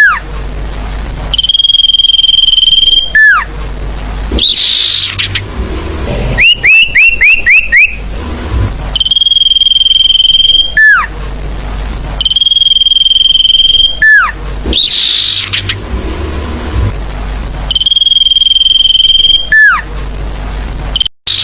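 Sirfu birdsong played as a lure (pikat) call. A long, steady, high whistle is followed by a sharp downward-sliding note, then a quick run of about five short rising chirps and a buzzy trill. The phrases repeat every few seconds, the same each time, as in a looped recording.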